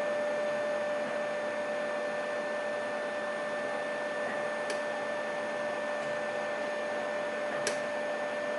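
Steady background hum and hiss, with a constant mid-pitched tone, and two faint sharp clicks about five and eight seconds in.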